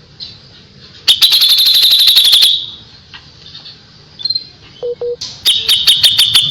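Pied triller (kapas tembak) calling: two loud, rapid rattling trills of clipped high notes, each about a second and a half long, about three seconds apart, with a few faint short notes between them. These are the sharp 'tembakan' bursts used as masteran to train songbirds.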